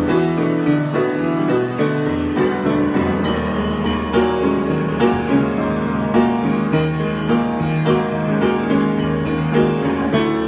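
Solo piano improvisation: a flowing run of struck notes over sustained chords, with a deep bass note coming in about two seconds in and held beneath.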